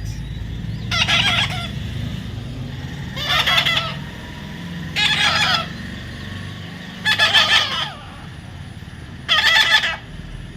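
Parrot squawking: five loud, harsh calls of about half a second each, roughly two seconds apart.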